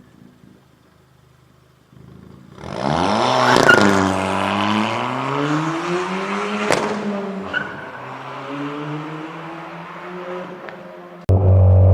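Ford Fiesta ST Mk7's turbocharged 1.6-litre EcoBoost four-cylinder revving through its exhaust. It comes in about three seconds in with the pitch rising and falling several times, then eases off. Near the end it cuts suddenly to a different loud, steady tone.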